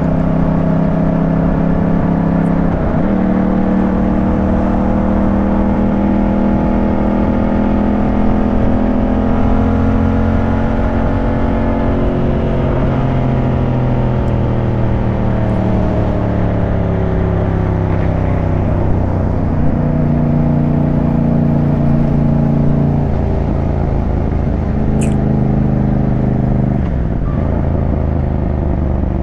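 Yamaha 689 cc parallel-twin motorcycle engine running under way, its pitch stepping and gliding up and down several times as the rider changes throttle and gears.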